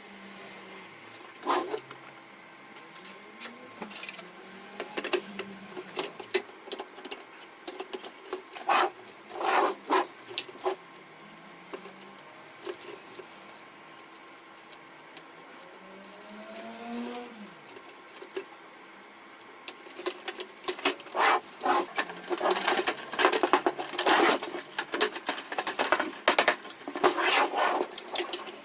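Irregular clicks, knocks and rattles of plastic and metal laser-printer parts being handled and fitted by hand, with a brief squeak about halfway through and a busier run of clicking over the last third.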